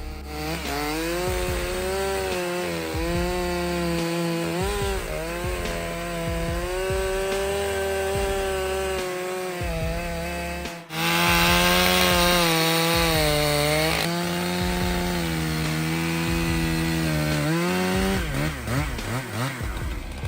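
STIHL MS661 C-M two-stroke chainsaw at full throttle cutting through wood, its engine pitch sagging under load and recovering again and again. It breaks off abruptly about eleven seconds in, then carries on cutting, louder, until the engine note drops away near the end.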